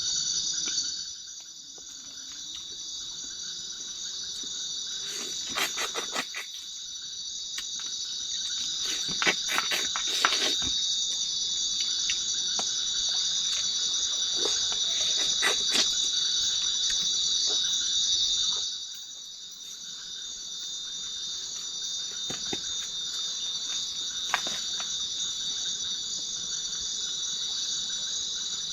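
Steady high-pitched chorus of night insects, crickets or similar, fading briefly twice and building back up. A few short clicks sound through it.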